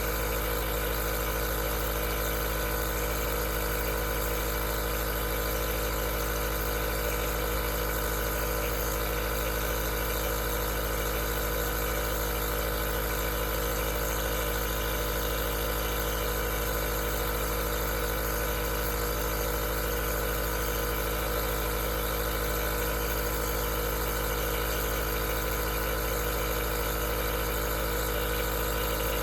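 Aerosol nebulizer's compressor running with an unchanging hum made of several steady tones, over a hiss.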